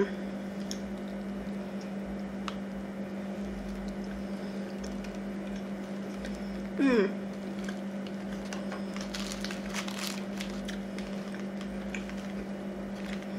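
Close-up chewing and wet mouth sounds of someone eating a bacon cheeseburger, with soft squishy bites and small crackles, thickest around nine to ten seconds in. About seven seconds in there is a brief hummed vocal sound, the loudest moment. A steady low electrical hum lies underneath.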